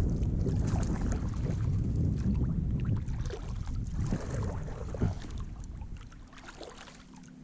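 Wind rumbling on the microphone, with small splashes and knocks of water around a kayak. The wind eases off over the second half.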